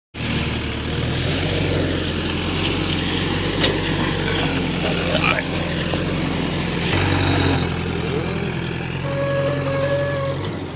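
Heavy diesel engine running steadily, its note changing about seven seconds in, with a couple of short knocks.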